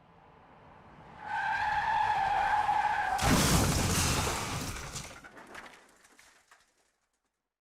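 Car skid and crash sound effect: tyres squeal for about two seconds, then a loud crash at about three seconds, followed by scattered rattling as it dies away.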